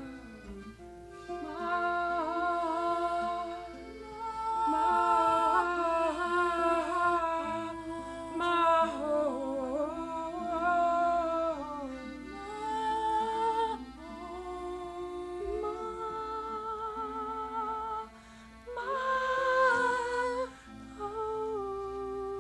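Wordless vocal humming: a melody of held notes with vibrato over sustained low background tones.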